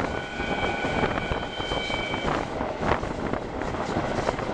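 Wind rushing over a microphone held out of a moving passenger train's window, over the train's running noise. A steady high tone sounds for about two seconds at the start.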